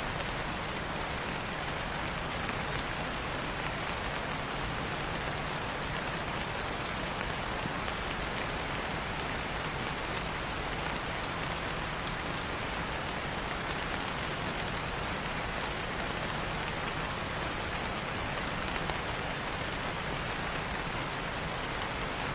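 Steady rain falling on leaves, an even hiss with scattered drop ticks.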